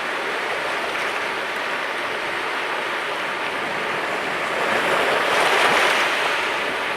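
Mediterranean sea waves washing onto the shore in a steady hiss of surf, with one wave breaking louder about five to six seconds in.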